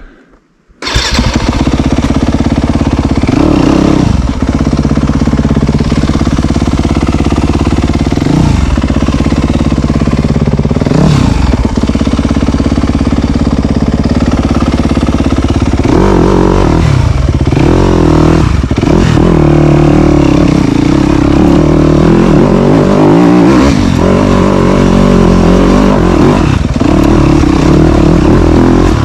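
Dirt bike engine, loud and close, starting about a second in and revving up and down as the throttle is opened and closed, rougher and harder from about halfway on.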